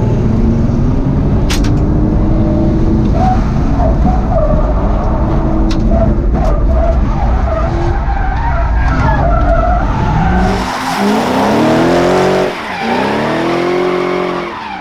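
BMW E46 330Ci drift car with its M54B30 straight-six revving hard while the tyres skid through a drift. In the last few seconds the engine pitch drops and climbs several times as the throttle is worked.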